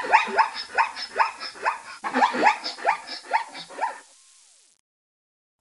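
Zebra's barking call: a rapid run of short, yelping barks, about three a second, which stops about four seconds in.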